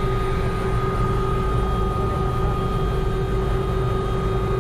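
Helicopter running steadily: a constant low drone of engine and rotor with a steady turbine whine above it.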